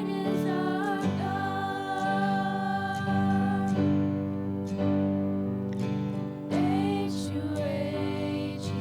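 Girls' voices singing a slow worship song in long held notes, accompanied by acoustic guitar.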